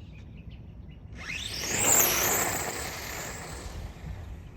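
Electric RC drag car launching and running a pass: the motor's whine climbs steeply in pitch about a second in, is loudest around two seconds in, then trails off into a fading rush of tyre and motor noise.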